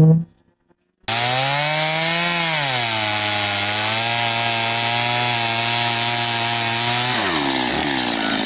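Gasoline chainsaw starting in after a moment of silence about a second in, running steadily as it cuts through a felled birch log, its pitch sagging under load around two seconds in and again near the end.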